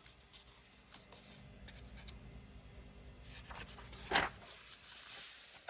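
Paper pages of a coloring book being handled and turned: a soft rustle building over the last few seconds, with one sharp paper flap about four seconds in.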